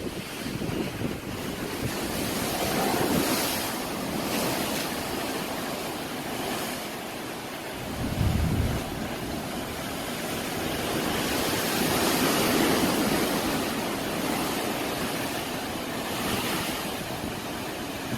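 Rushing floodwater from a storm-swollen stream, a steady noise of churning water that swells and eases. Wind buffets the microphone briefly about eight seconds in.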